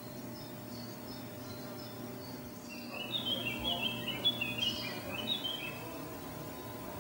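Small songbirds chirping and twittering. Faint high chirps come first, then a busier run of quick chirps about three seconds in, over a steady low hum.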